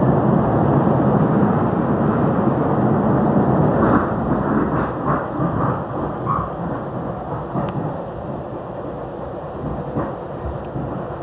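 Passenger train running at speed, heard from inside the car: a steady rumbling rush of wheels on rail, loudest over the first four seconds and then easing.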